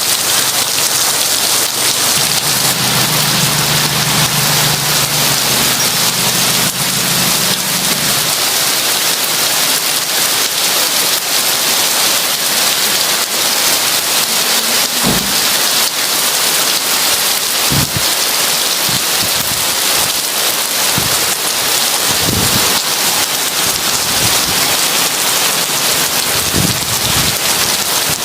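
Heavy rain falling steadily, a dense hiss of many drops. A low rumble runs from about three to eight seconds in, and dull low thumps come now and then in the second half.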